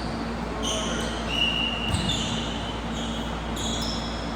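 Basketball shoes squeaking on a hardwood gym floor during play, a run of short high squeaks, with a single ball bounce about two seconds in.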